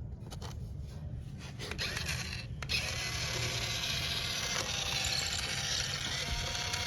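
A small electric toy motor and plastic gearbox clicking and ratcheting, then running into a steady whir from a little under three seconds in.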